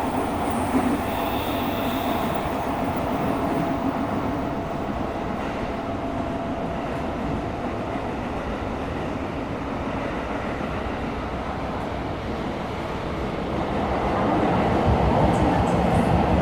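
Interior running noise of a Tokyo Metro 17000 series subway train in a tunnel: a steady rumble of wheels on rail. A thin steady whine fades out about halfway through, and the rumble grows louder near the end.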